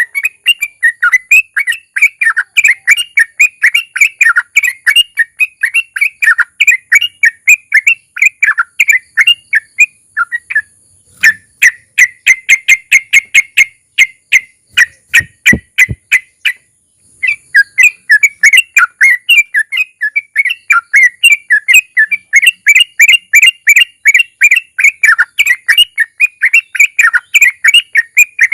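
Yellow-vented bulbul (trucukan) singing long, rapid chattering 'ropel' trills. About halfway it slows to evenly spaced single notes, breaks off briefly, then goes back to rapid trilling.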